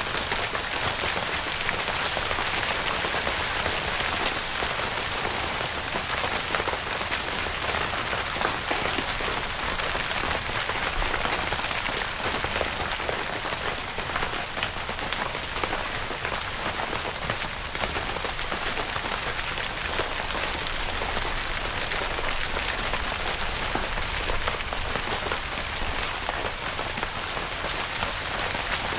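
Steady rain falling on a tent, a dense, even hiss of countless small drop hits.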